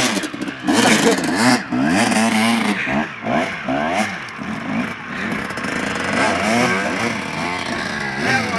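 Off-road motorcycle engines revving, their pitch rising and falling again and again, with more than one bike running at once.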